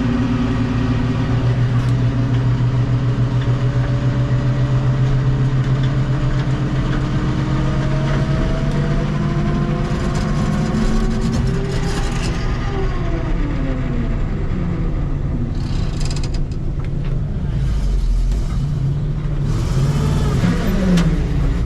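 Dump truck engine running under load, its pitch rising as it revs from about six seconds in, then dropping back, with rushing noise over the last few seconds.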